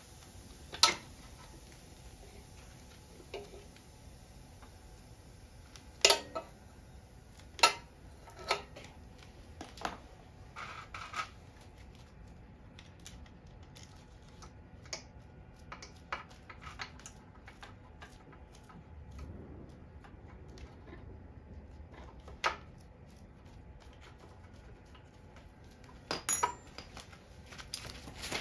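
Scattered metallic clinks and taps of hand tools and small metal parts being handled during repair work, with several sharper clanks spread through.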